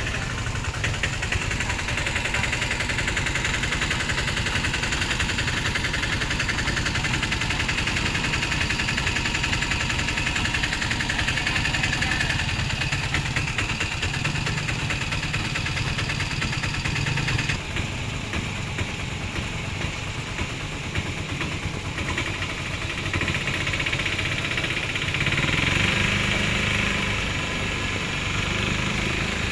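A vehicle engine running steadily at a low, even pace, with a hiss over it that thins out partway through.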